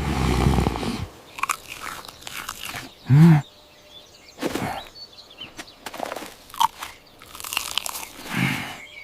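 Crunching and chewing, as of something crisp being bitten and eaten, in scattered short crackles. A brief low grunt-like sound that rises and falls in pitch about three seconds in is the loudest thing heard.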